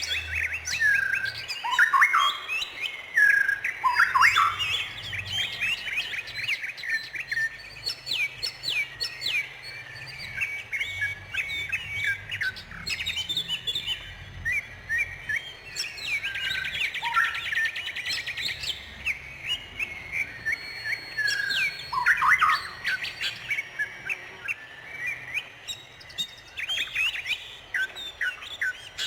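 Songbirds chirping and singing together in a dense, overlapping chorus of short calls and whistles, with a rapid trill about halfway through and again a few seconds later.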